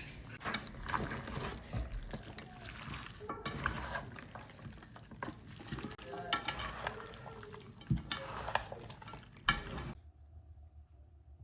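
A spoon stirring and scraping in a cooking pot, with scattered clinks, which stops suddenly about ten seconds in.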